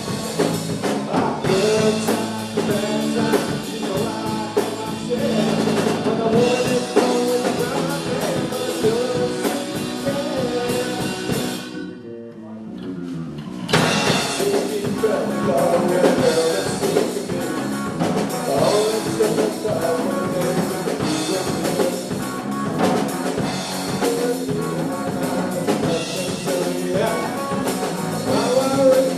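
Live rock band playing, with a drum kit and singing. About twelve seconds in the band drops out briefly and one falling tone sounds, then the full band comes back in.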